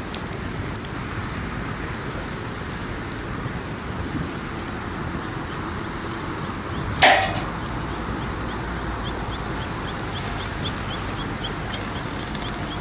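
Campfire burning, with scattered light crackles over a steady rushing background. About seven seconds in there is a single loud, sharp sound, and in the second half a faint run of short high chirps, about three a second.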